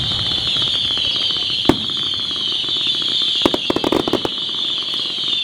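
Aerial fireworks going off: one sharp bang about a second and a half in, then a short spell of rapid crackling around the middle, over a steady high-pitched hiss.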